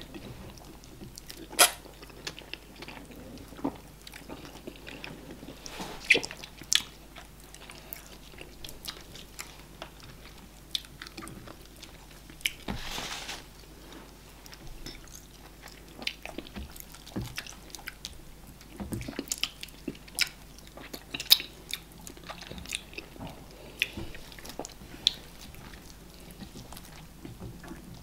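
Close-miked eating sounds of two people eating eba (garri swallow) with okra soup and meat by hand: chewing with irregular wet mouth smacks and clicks, a few much sharper than the rest.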